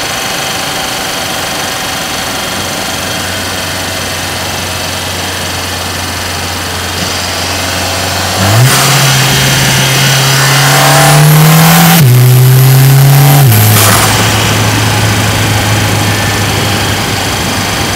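Mercedes-AMG GLA 45's turbocharged 2.0-litre four-cylinder heard from inside the cabin. It cruises steadily, then about halfway through it shifts down and accelerates hard, the engine note rising through one quick upshift. After about five seconds it settles back to a steady cruise.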